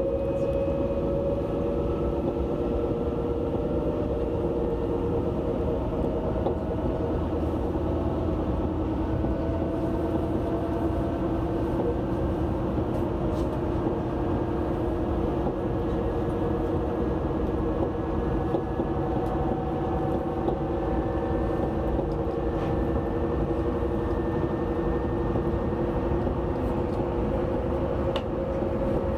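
Alstom Régiolis regional train running at speed, heard from inside the coach: a steady rolling rumble with a whine of several tones that drift slowly in pitch.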